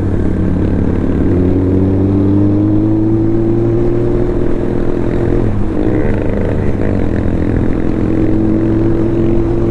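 Suzuki Hayabusa's inline-four engine running hard at speed, its pitch slowly climbing; around six seconds in the note breaks and drops, then climbs again.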